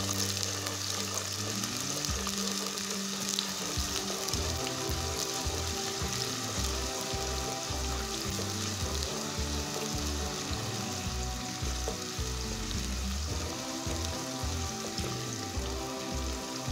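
Sliced onions sizzling steadily in hot oil while a wooden spatula stirs them round the pot, with background music underneath.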